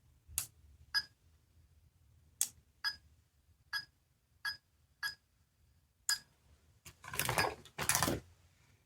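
Small sound-making capsule toy being handled: eight sharp clicks at uneven intervals, most with a brief high ring, then a longer rattling scrape about seven seconds in.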